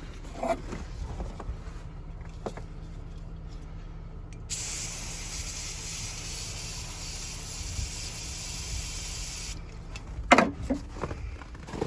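Aerosol can of ether starting fluid spraying in one steady hiss of about five seconds, given as a shot to help a diesel start in the cold. A sharp knock follows shortly after it stops.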